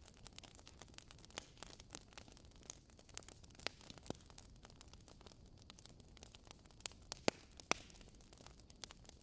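Wood fire crackling in a fireplace: irregular snaps and pops of burning logs over a low hiss, with a few louder snaps near the middle and again toward the end.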